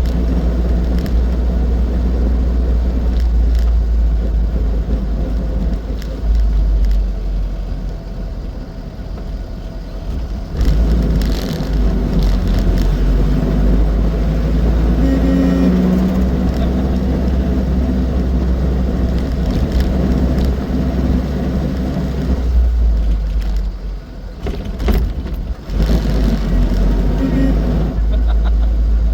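Austin 7's small four-cylinder side-valve engine running while the car drives along, with a heavy low rumble underneath. The sound eases off briefly about eight seconds in and again near twenty-four seconds before picking up again.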